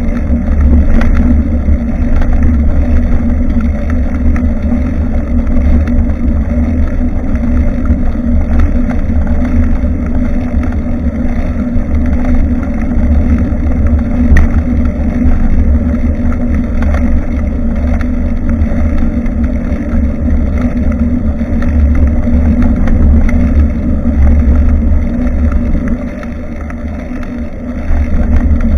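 Steady low wind rumble buffeting the microphone of a bicycle-mounted camera while riding, mixed with the noise of the moving bike; it eases off for a couple of seconds near the end.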